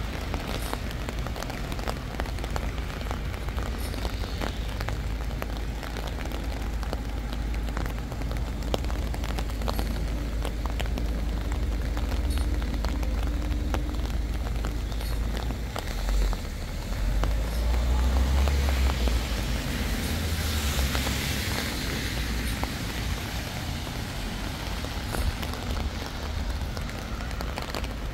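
Steady rain, with many small drops ticking close by over a constant low rumble. About two-thirds of the way through, the rumble swells and a hiss rises over it for a few seconds.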